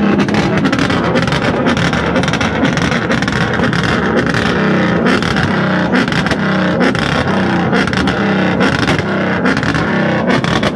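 Car engine revving hard and repeatedly close by, the pitch rising and falling about once a second.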